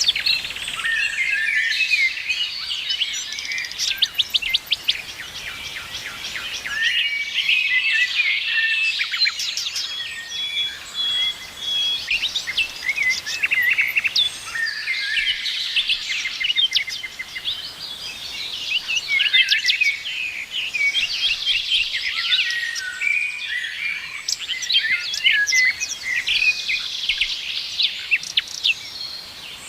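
Many small songbirds chirping and singing at once, a busy overlapping chorus of short high chirps, trills and quick repeated notes that thins briefly now and then.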